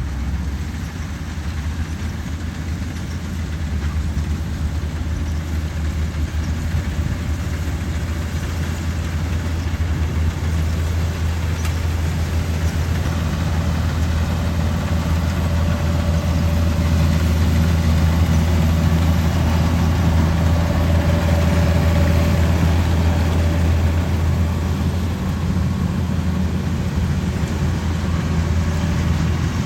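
Kubota 105 combine harvester's diesel engine running steadily with a deep hum, growing slightly louder over the first half of the stretch.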